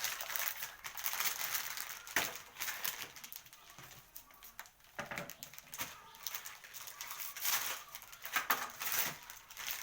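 Crinkly plastic packaging being handled: irregular rustling with crackles and clicks.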